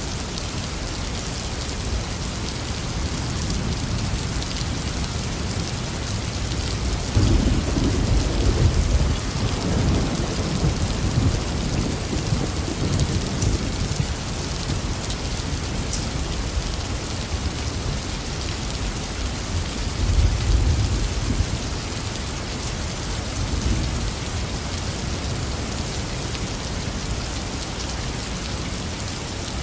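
Heavy rain falling steadily, with rolling thunder rumbling twice: a long low roll starting about seven seconds in and another shorter one about two-thirds of the way through.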